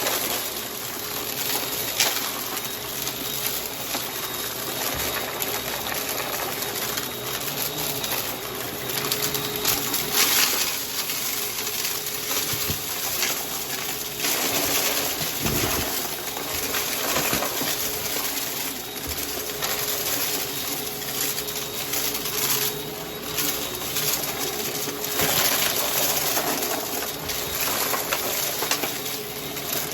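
Vacuum cleaner running with a steady motor tone while it sucks up a dry crunchy mess, with dense rattling and crackling of debris going up through it that swells in bursts.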